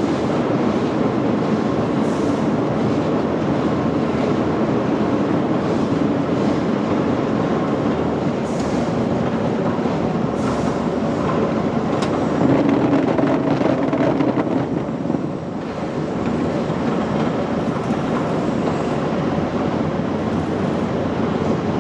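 Steady, continuous rumbling clatter of factory machinery, getting a little louder about halfway through and then briefly easing.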